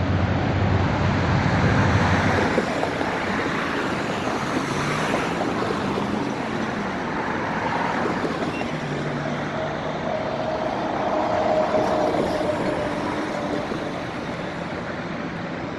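Steady road traffic noise, vehicles passing continuously, with a low engine hum near the start.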